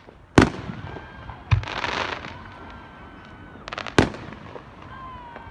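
Aerial fireworks shells bursting: two loud booms about three and a half seconds apart, with a smaller bang in between that breaks into a short crackle.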